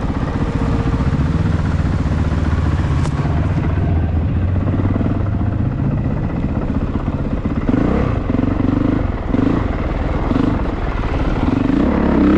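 Honda CRF450RX dirt bike's single-cylinder four-stroke engine running under way on a trail, its note rising and falling with the throttle, with short blips of throttle in the second half.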